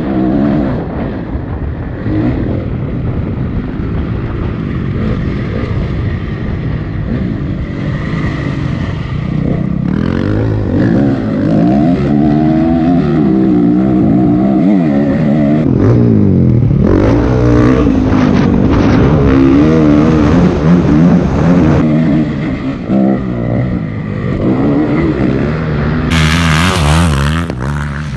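Honda CRF250 dirt bike's single-cylinder four-stroke engine being ridden hard, its pitch repeatedly climbing and dropping as the throttle opens and closes through the gears. Near the end a loud rushing hiss rises over the engine.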